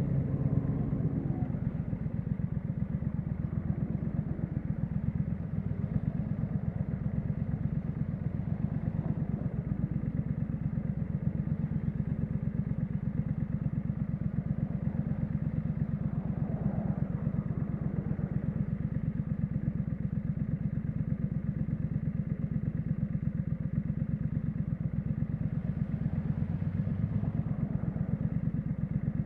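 Triumph Street Scrambler's 900 cc parallel-twin engine idling steadily through its exhaust, an even low pulsing with no revs.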